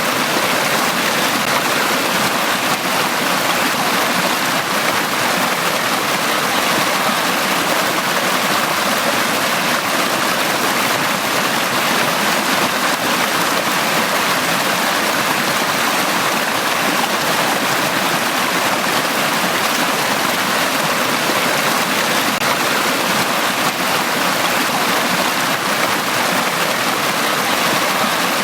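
Valley stream flowing over rocks: a steady, even rush of running water.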